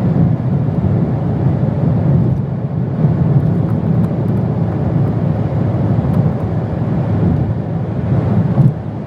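A car being driven along the road: a steady low rumble of road and tyre noise.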